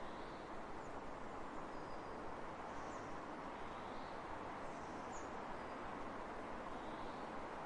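Steady wind across open fields, with a few faint, scattered high bird chirps.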